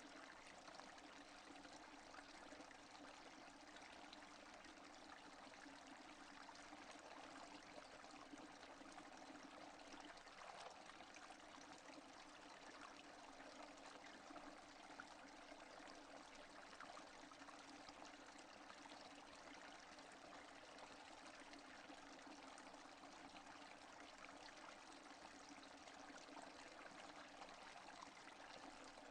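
Faint, steady rain: an even hiss of falling drops with fine pattering ticks and no thunder.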